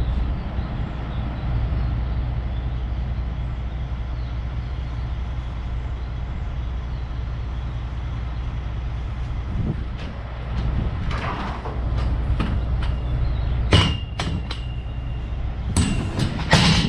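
Semi-truck diesel engine idling steadily, with knocks and clatter in the last few seconds and a high steady beep for about a second and a half near the end.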